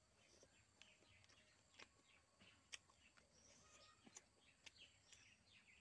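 Faint outdoor birdsong: a run of short, falling chirps repeated again and again. A few sharp clicks from chewing and mouth sounds stand out above it.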